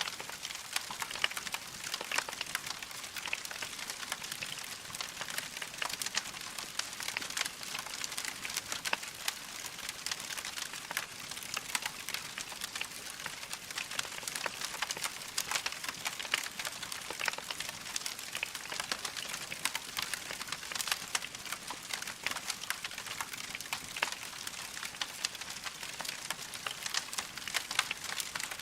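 Wood fire crackling steadily: many small sharp pops and snaps over a soft hiss of burning logs.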